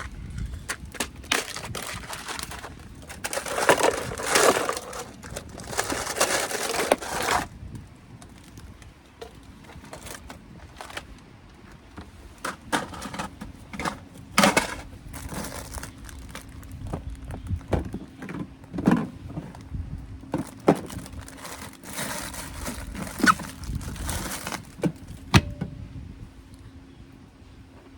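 Rustling, crinkling and a series of knocks and clicks as things are handled, with a faint steady hum coming in about halfway through.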